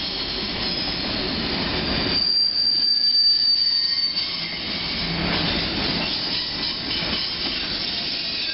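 Covered grain hopper cars of a CN freight train rolling past, steel wheels squealing against the rails. A high, steady squeal is loudest from about two to four seconds in.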